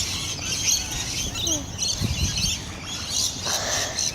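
A large flock of small birds chirping together, many overlapping high calls at once in a continuous chatter.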